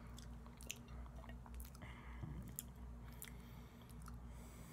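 Close-up chewing of gelatinous, chewy barbecue chicken, with scattered short wet mouth clicks, over a steady low hum.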